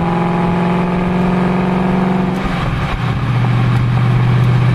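Mustang GT's 5.0-litre Coyote V8 heard from inside the cabin through an MRT Interceptor cat-back exhaust, cruising with a steady low hum. About two and a half seconds in the pitch drops and settles into a lower, steady hum as the engine is brought down to low RPM, lugging at about 1,600 RPM, where exhaust drone shows up.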